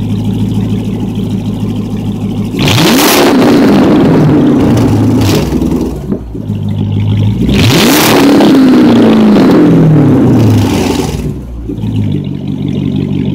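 2005 Dodge Magnum RT's 5.7-litre Hemi V8, straight-piped with a BBK cold air intake, idling and then revved twice to about 3,000 rpm. Each rev is held for a few seconds before the pitch falls back to a steady idle.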